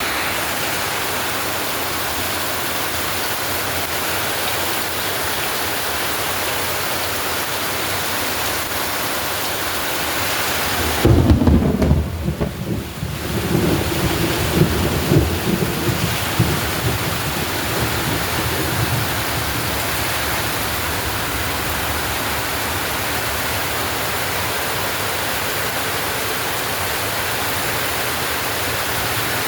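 Steady rain with a loud, low rumble of thunder about eleven seconds in that rolls on for several seconds before the rain alone returns.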